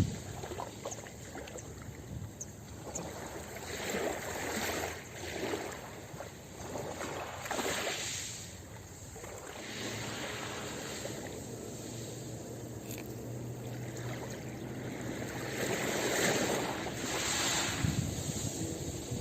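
Ocean waves washing onto a beach, the surf swelling and falling back every few seconds.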